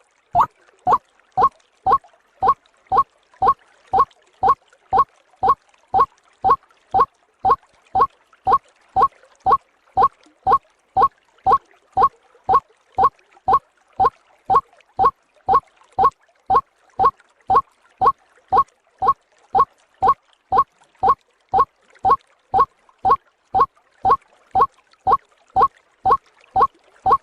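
White-breasted waterhen (ruak-ruak) calls played as a looped bird-lure recording: short, identical calls repeating at an even pace, about one and a half a second.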